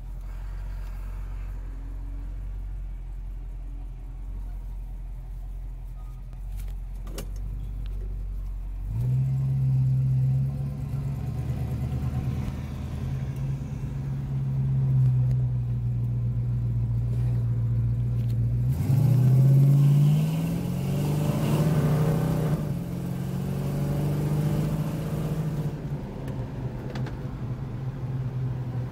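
1969 Dodge Super Bee's 383 V8, heard from inside the cabin, running at low revs. About nine seconds in it steps up as the car pulls away. Near the nineteen-second mark the engine note rises under acceleration, then settles into a steady cruise.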